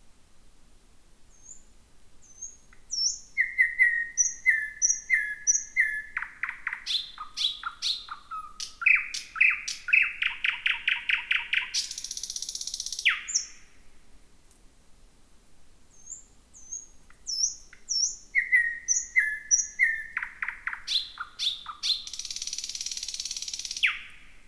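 Thrush nightingale singing two song phrases. Each starts with short high whistled notes and a series of repeated notes, speeds up into rapid clicking, and ends in a dry rattle.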